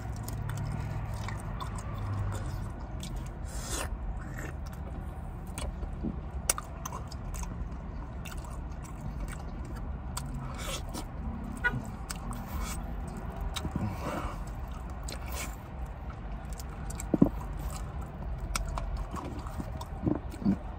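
A person chewing and eating hot wings and stuffed pizza, with scattered sharp clicks from handling the food, over a steady low hum.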